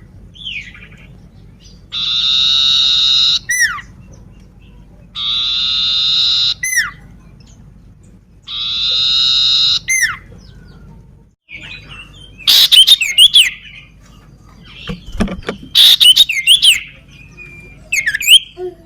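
Common iora (cipoh) singing. It gives three long, drawn buzzy notes, each ending in a quick falling whistle, about three seconds apart. From about twelve seconds in come loud runs of rapid chirps and sliding whistles.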